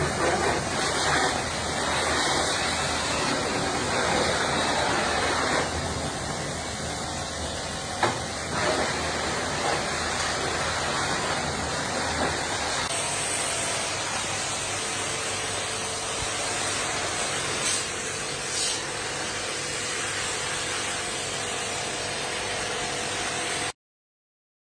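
Cleaning equipment running with a steady hissing spray. The sound changes about halfway through, when a faint steady hum comes in, and it stops suddenly near the end.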